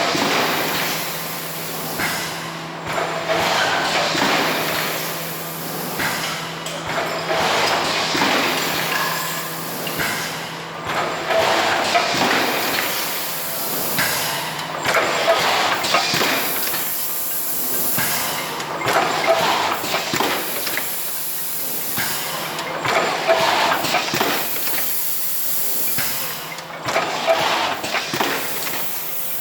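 Thermoforming machine running in production, with a mechanical clatter and hissing air that swell and ease in a repeating cycle every three to four seconds.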